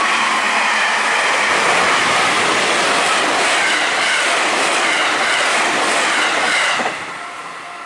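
JR Central Tokaido Line electric train passing close by, with a loud, steady rush of wheels on rail. The noise drops away suddenly as the train clears, about seven seconds in, leaving the level-crossing bell ringing in short repeated tones.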